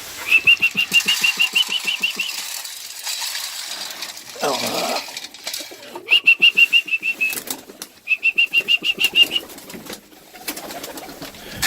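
Pigeons in a loft: wing flapping with three runs of rapid, evenly repeated high-pitched peeps, each lasting about two seconds, and a lower falling sound between the first and second runs.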